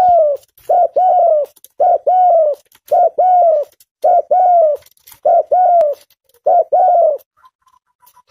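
Tame spotted dove (tekukur) cooing loudly: a short note and a longer, slightly falling note, repeated about once a second, six times over. Near the end the cooing stops and faint, evenly spaced ticks are heard.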